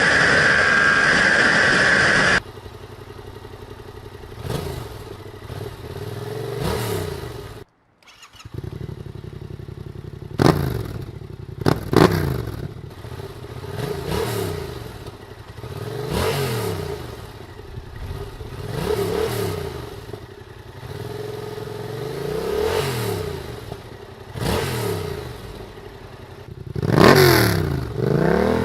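Yamaha MT-07's 689 cc parallel-twin engine with an aftermarket exhaust, free-revving: the throttle is blipped about every two to three seconds, each rev rising and falling back to idle, with two louder revs near the end. For about the first two seconds a louder, steady engine sound plays before a cut.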